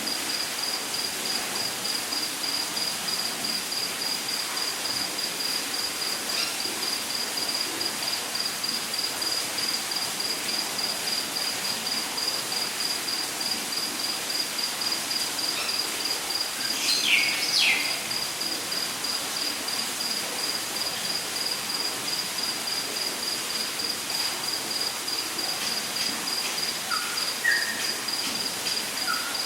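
Rainforest ambience: an insect, cricket-like, chirps throughout in a rapid, even, high-pitched pulse over a steady hiss. About halfway through a bird gives a couple of sharp falling calls, and a few short bird notes come near the end.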